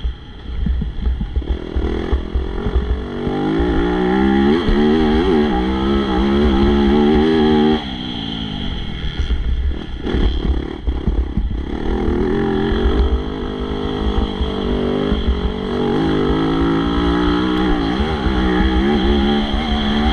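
Motocross bike engine revving hard and dropping as it is worked through the throttle. It is loud for several seconds, then cuts back sharply and picks up again, over a steady low rumble.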